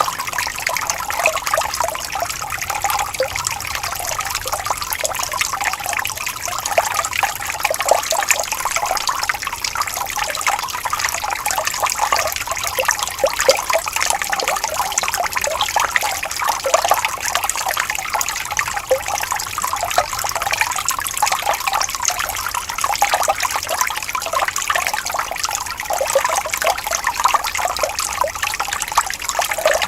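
Water trickling and bubbling gently and without a break, with many small splashes.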